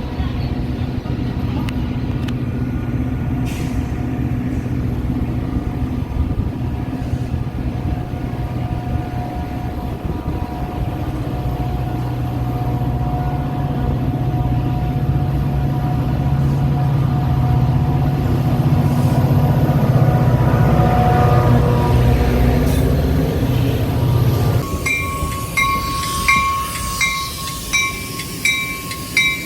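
Metra commuter train's diesel locomotive running steadily at the platform, growing louder. About three-quarters of the way through, the door-closing warning starts: a high electronic tone beeping about twice a second, signalling that the doors are about to close.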